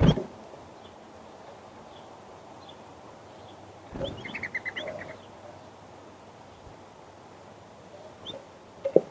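Small birds chirping in short, scattered calls, with a quick trill of about six notes about four seconds in. A few dull knocks sound at the start, about four seconds in and near the end.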